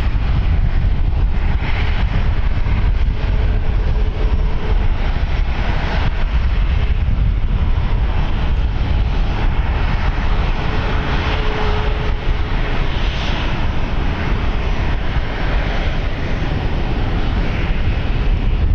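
Jet aircraft engines running, a steady rush with a faint tone that fades in and out, heard through heavy wind noise on the microphone.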